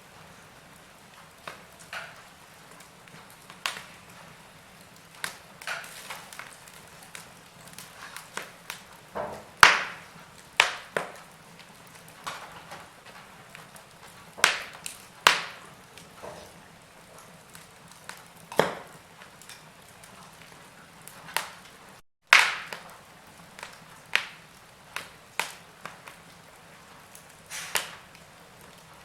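Wood fire in a fireplace crackling: irregular sharp pops, some much louder than others, over a faint steady hiss. The sound cuts out for an instant about two-thirds of the way through.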